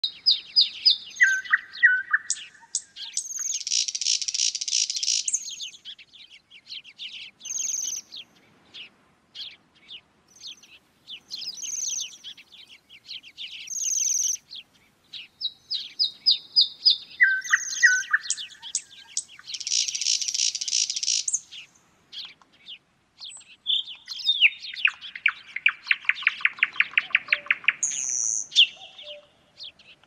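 Songbirds singing: short high whistled notes and rapid buzzy trills from several birds. The same run of songs comes round again about fifteen seconds later, and a lower, slower trill follows near the end.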